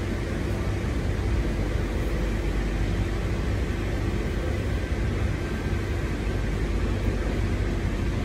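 Interior running noise of a double-deck suburban electric train at speed, heard from inside the carriage: a steady rumble of wheels on track with a constant hum from the train's equipment.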